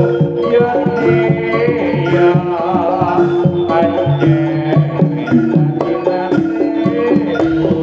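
Jaranan ensemble music: hand drums (kendang) beating a busy rhythm over held gong-chime tones, with a melody that bends up and down in pitch.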